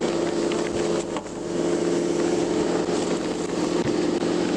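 A vehicle engine running steadily, a constant hum under even background noise.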